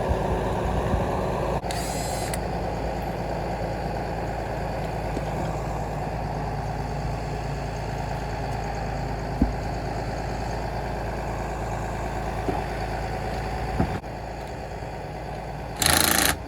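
Tow truck engine idling steadily while a car is loaded onto it, with a couple of sharp knocks and short bursts of hiss about two seconds in and near the end.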